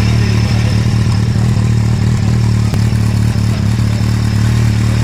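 2016 Kawasaki Z800's inline-four engine idling steadily through an SC-Project GP M2 exhaust with its dB killer fitted.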